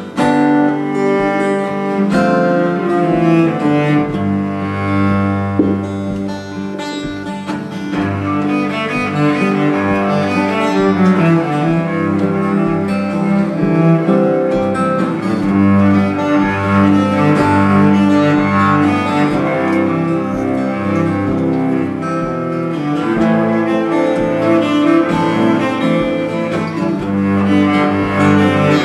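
Instrumental break of a folk song: cello playing a melodic solo line over strummed acoustic guitar, with no singing.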